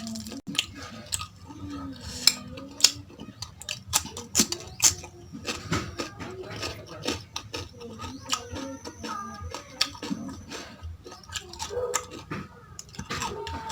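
Cutlery clicking and scraping against a plate while someone chews a mouthful of mutton tahari rice. Many short, sharp, irregular clicks.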